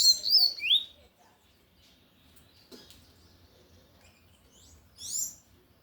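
Double-collared seedeater singing its 'tui tui' song: a loud burst of quick high chirps in the first second, then a shorter phrase of rising notes about five seconds in.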